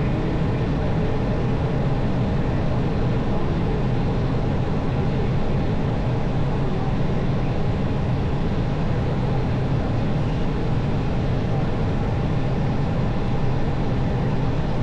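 Steady, unbroken noise of an Airbus airliner's engines and airflow, strongest in the low range.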